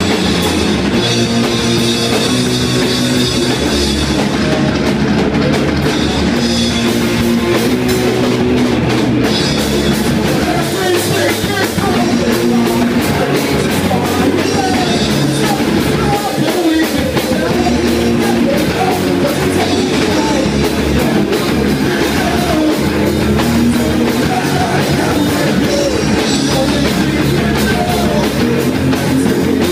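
Rock music with a full drum kit and distorted guitars, loud and steady, with singing coming in after about ten seconds.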